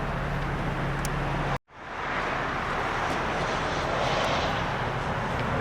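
A car engine running steadily, a low hum under a broad rushing noise. The sound cuts out abruptly about one and a half seconds in and returns a moment later.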